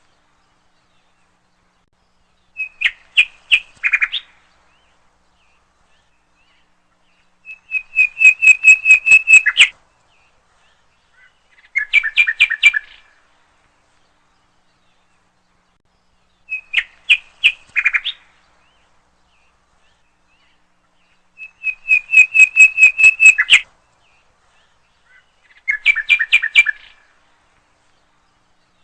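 A songbird singing short phrases of rapid, repeated chirping notes, six phrases in all with silent pauses of a few seconds between them.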